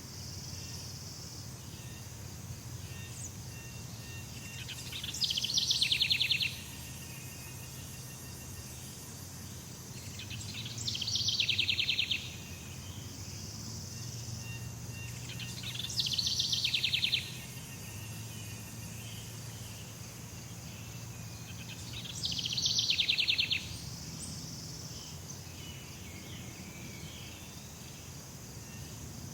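Jungle ambience: a steady high insect drone over a low hum, broken about every five to six seconds by a loud, rapid pulsing trill lasting about a second and a half, four times in all.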